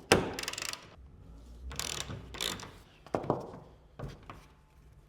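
Ratchet wrench clicking in several short bursts, loosening the bolts that hold a car's hood on.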